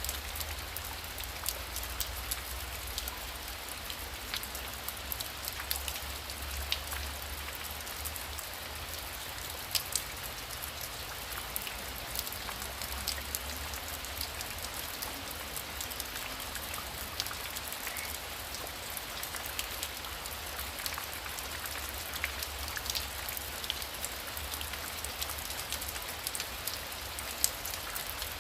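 Heavy rain falling steadily, with many individual drops ticking sharply on a nearby surface over the even hiss of the downpour, and a faint low rumble beneath.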